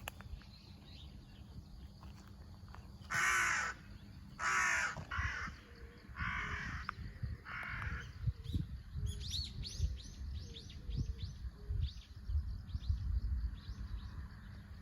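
Crow cawing: about five harsh caws, loud and close, starting about three seconds in. Fainter quick chirps follow later.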